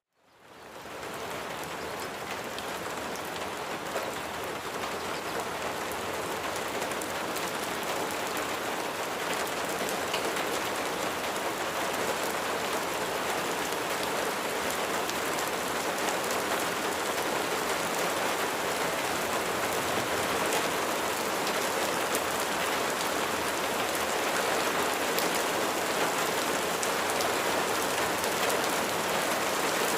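Steady rain, fading in from silence in the first second and then holding even.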